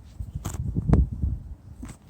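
A few sharp knocks and a cluster of low thuds and rumble close to the microphone, loudest around the middle.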